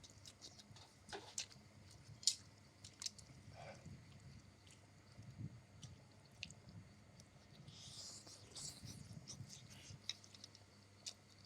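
A person chewing and eating egg noodles, with soft, scattered wet clicks and mouth sounds, the loudest a sharp tick a couple of seconds in.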